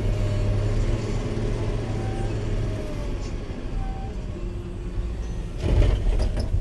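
Caterpillar 120K motor grader's diesel engine running steadily with a low drone, which eases a little about three seconds in. A short, loud clattering burst comes near the end.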